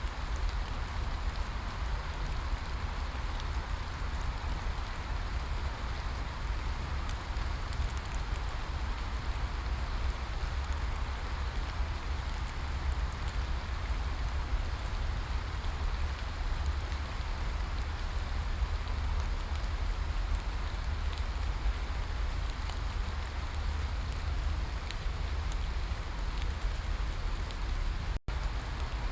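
Steady rain falling, an even hiss of drops pattering on a surface, with a constant low rumble underneath. The sound drops out for a split second near the end.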